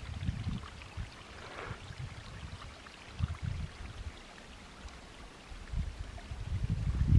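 Wind buffeting the microphone outdoors: an uneven low rumble in gusts, easing through the middle and building again near the end.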